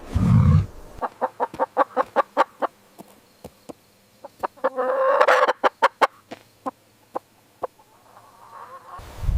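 Chickens clucking: a fast run of short clucks, then a louder, harsher call about halfway through, followed by a few scattered single clucks. A brief low rumble is heard at the very start.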